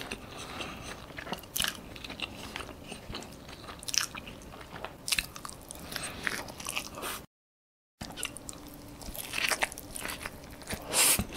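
Close-miked eating: a person biting into and chewing omelette on sourdough toast, with scattered small clicks and soft crunches. The sound drops out completely for under a second about two-thirds of the way through.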